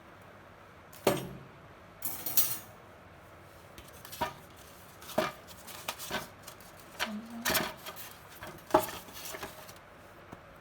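Clinks and clatter of microwave oven accessories, such as metal racks and trays, being handled and set down: a dozen or so sharp knocks at uneven intervals, the loudest about a second in and another near the end.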